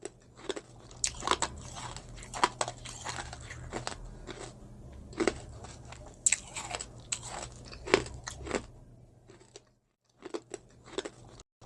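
Close-miked eating sounds: irregular crisp crunching bites and chewing, broken by two brief pauses near the end.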